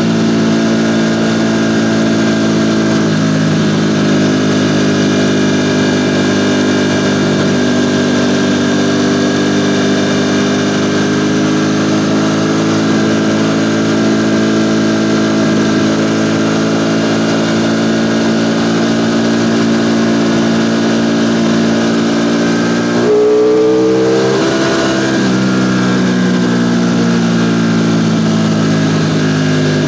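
Ducati Panigale V4 motorcycle's V4 engine running under way, its pitch drifting slowly up and down. About 23 seconds in the pitch jumps up briefly and gets a little louder, then drops lower and climbs again.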